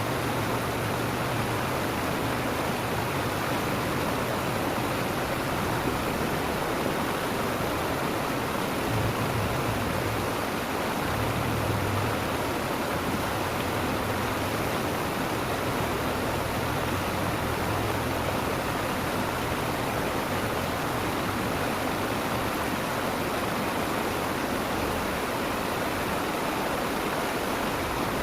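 Steady rush of flowing water in a small river or ditch, unbroken throughout, with a few faint low rumbles about a third of the way in.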